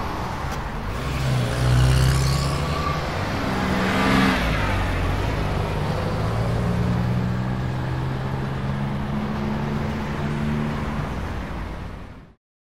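Car engine and road noise, a steady hum with two louder swells, that cuts off suddenly near the end.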